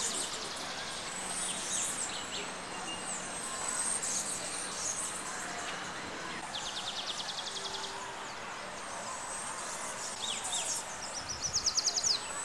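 Birds calling: scattered high chirps and two rapid trills, the second, about 11 seconds in, the loudest, over a steady high wavering tone.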